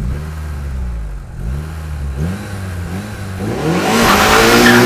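Car engine being revved in quick blips, its pitch rising and falling about twice a second, held on the throttle ready to launch; a little past halfway it pulls away hard with the revs climbing and tyre noise building.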